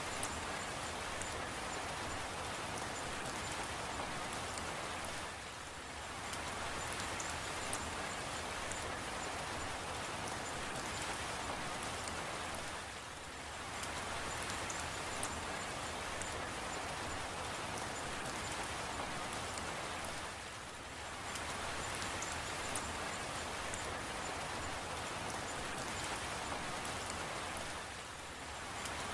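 Steady rain falling, an even hiss with scattered fine drop ticks, dipping briefly in level about every seven and a half seconds.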